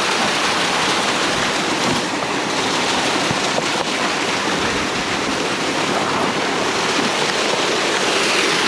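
Running water rushing steadily, a stream or small waterfall close by.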